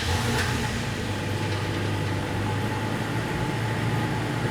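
Toyota Tacoma's engine idling steadily just after being started, with a strong low hum.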